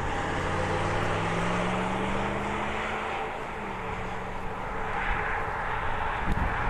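An engine's hum, its pitch rising slowly over the first few seconds and then fading, over a steady rush of noise.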